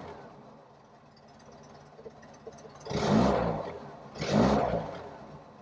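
Triumph Toledo's 1300 cc four-cylinder engine, warm, idling quietly, then revved twice in short throttle blips about three and four and a half seconds in, each rising and falling in pitch. Heard from inside the cabin.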